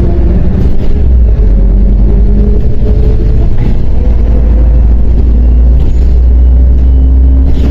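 MAZ 105.065 articulated city bus heard from inside while under way: a loud, steady low engine drone with road rumble, the engine note shifting and rising slowly in the second half as the bus pulls along.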